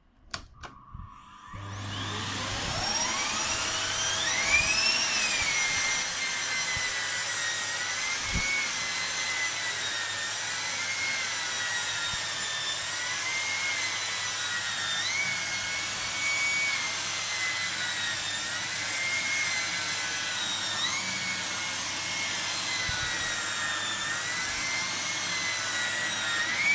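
Electrolux ZAP9940 canister vacuum cleaner switched on with a click, its motor whine rising over a few seconds to full speed. It then runs steadily at a high whine, the pitch wavering up and down.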